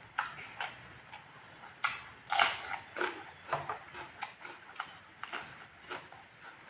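Eating sounds up close: wet chewing and lip-smacking on spicy pork fry, coming as irregular short smacks and clicks, the loudest about two and a half seconds in.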